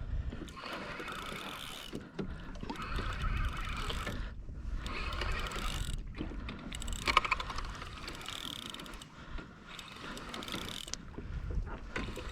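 Fishing reel being cranked to bring in a hooked fish, a geared whirring that comes in several spells with short pauses between them.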